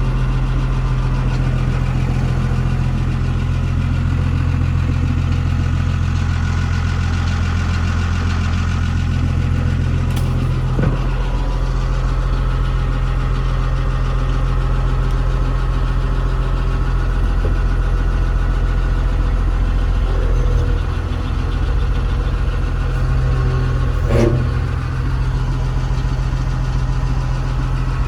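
Isuzu 6BD1 inline-six diesel engine of an old Hitachi UH06-5 hydraulic excavator running steadily. Its note shifts slightly about 11 seconds and again about 21 seconds in, with a short knock near each change.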